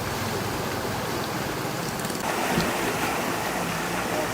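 Steady rush of flowing floodwater, growing a little fuller and louder about two seconds in.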